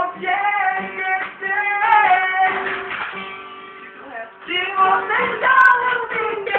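Live acoustic music: a plucked string instrument accompanies a held, sliding melody line over a steady low note, easing off briefly about halfway through before coming back in.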